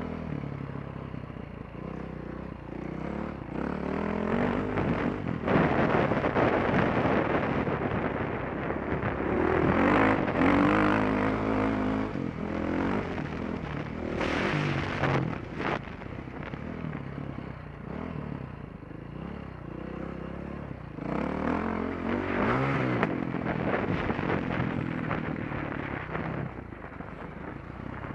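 Dirt bike engine revving up and down through gear changes as it is ridden around a motocross track, heard from a helmet-mounted camera with wind rushing over it. The revs are highest about a fifth to a third of the way in and again near three-quarters.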